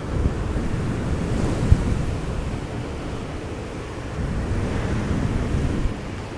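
Fingers rubbing and brushing a fluffy microphone windscreen, a low rumbling swish with small thumps that eases off slightly in the middle and picks up again.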